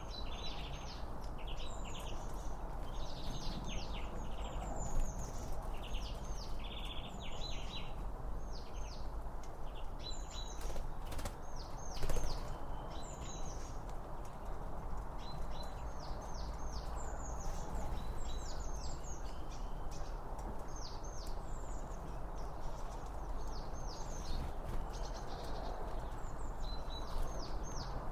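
Small songbirds chirping in quick repeated bursts throughout, over a steady background rush. A couple of sharp knocks come near the middle.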